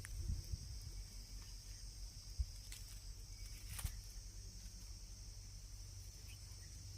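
Insects chirring steadily in the background, with a couple of faint knocks about two and a half and four seconds in.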